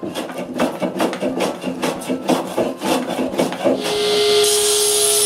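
Hand plane shaving a poplar block in quick repeated strokes, about three a second. Near the end a power saw starts and runs with a steady hum.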